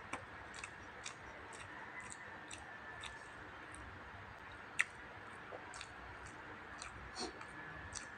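Close-miked chewing of a mouthful of hotdog with the mouth closed: small wet mouth clicks about twice a second, with one sharper click about halfway through.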